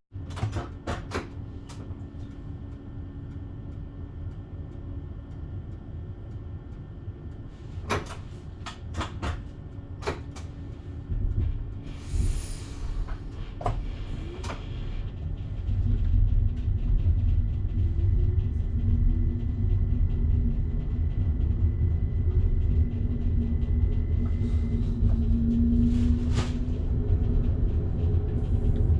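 Electric train heard from inside the driver's cab: a few sharp clicks and knocks and a short hiss of air, then about halfway through a louder low rumble as the train gets under way, with a motor hum that rises in pitch and then holds.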